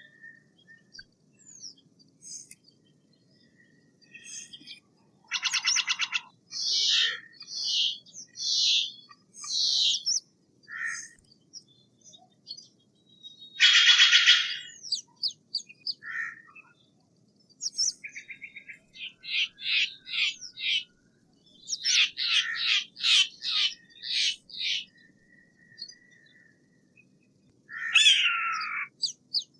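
Steller's jay calling: harsh, raspy calls, some on their own and some in quick runs of several, the loudest about halfway through, and a falling call near the end.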